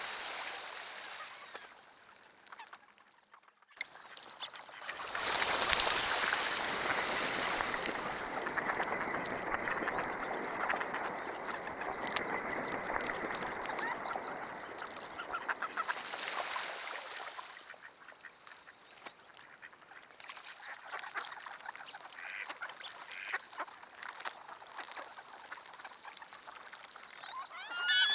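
A large flock of ducks, mallards among them, calling and quacking together in a dense din that swells about five seconds in and thins to a softer scattered chatter after about seventeen seconds.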